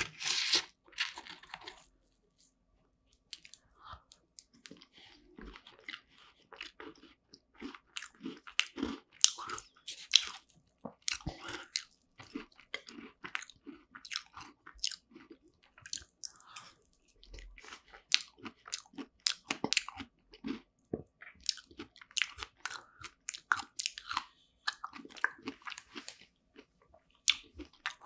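Close-miked chewing and biting of a strawberry rare cheese tart, with crisp crunches from the tart crust coming in irregular runs of crackles and a short pause near the start.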